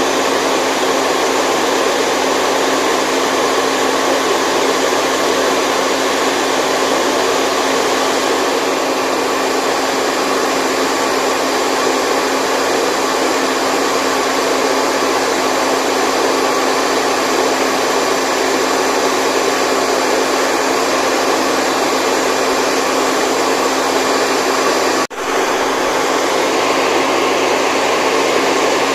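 Steady white-noise hiss, an even rushing sound with little bass, which dips out for an instant about 25 seconds in.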